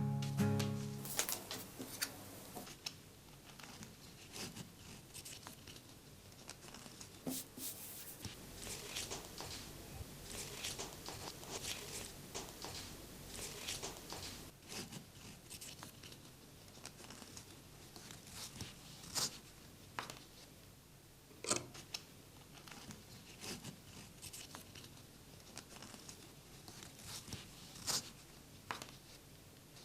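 Hands working a pair of denim jeans at close range: fabric rustling and scraping, with scattered short, sharp clicks.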